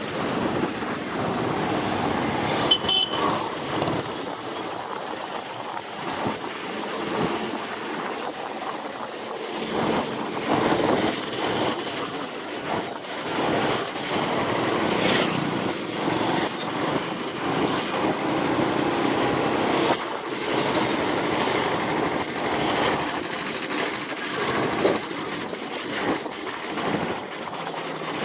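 Riding noise from a moving motorcycle: a steady rush of wind and road noise over the engine, rising and falling unevenly.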